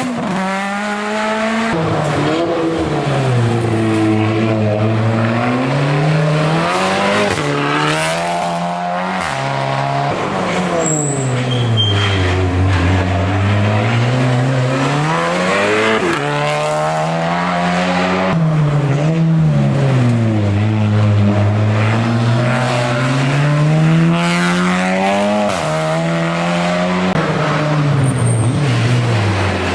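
Race car engine at a hill climb, its revs sweeping down and back up in long arcs again and again, with a few sudden jumps in pitch, and some tyre squeal.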